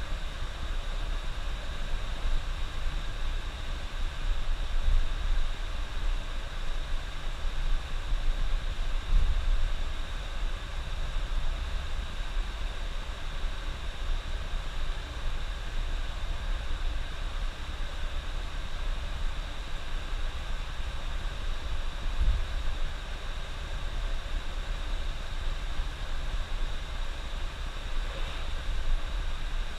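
Coach bus driving on the highway: a steady engine and road rumble with a few brief low bumps.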